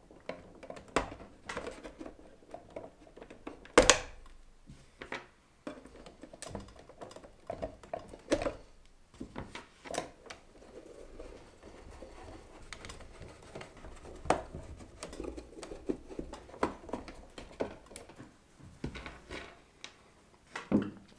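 Small screws being undone from the plastic roof of a G-scale model locomotive: irregular clicks, taps and light scrapes of a screwdriver and of the plastic shell being handled, with a sharper knock about four seconds in.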